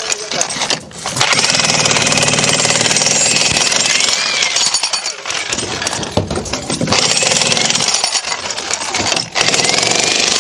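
Jackhammer running in long bursts of rapid hammering, stopping briefly about a second in, around five seconds in, and shortly before the end.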